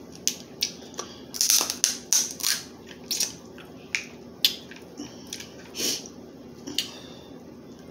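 Crab leg shells being cracked and broken apart: a run of short, sharp, irregular cracks and snaps, some in quick clusters.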